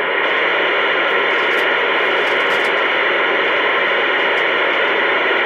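Steady hiss of static from a CB radio's speaker between transmissions, with no voice in it.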